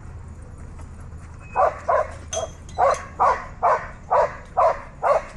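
A dog barking repeatedly, about two barks a second, starting about one and a half seconds in.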